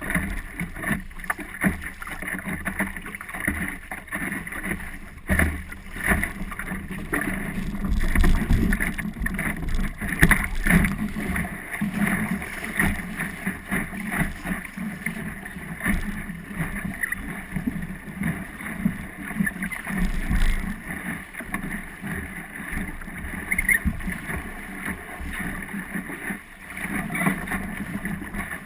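Water splashing and slapping against the hull of a small Optimist sailing dinghy under way, in an irregular run of splashes and knocks, with a low rumble of wind on the microphone.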